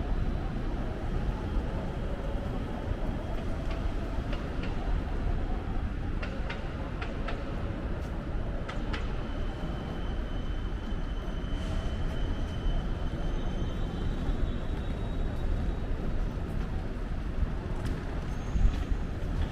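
Steady low rumble of passing traffic, with a faint high whine for a few seconds midway.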